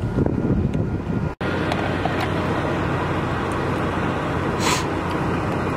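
Steady rumble of idling vehicles and traffic, with wind buffeting the microphone. The sound drops out for an instant about a second and a half in, and there is a brief hiss near the end.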